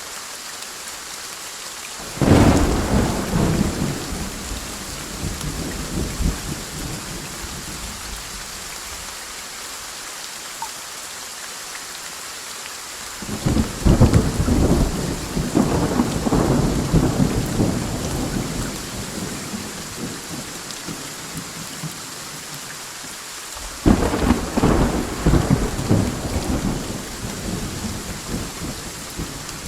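Steady rain with three peals of thunder: a sudden crack about two seconds in, a second that builds around the middle, and a third sudden crack near the end, each rumbling away over several seconds.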